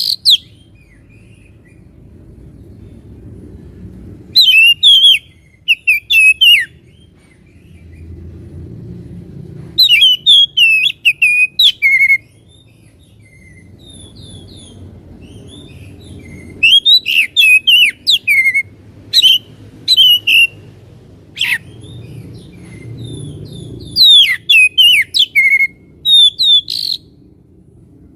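Oriental magpie-robin (kacer) singing loud bursts of rapid, high whistled and chattering phrases, each lasting a second or two, with pauses of several seconds between them. A low background noise swells and fades in the pauses.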